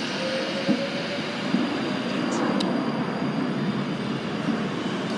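Train noise at a station platform: a steady rumble from rail traffic, with a couple of brief light clicks.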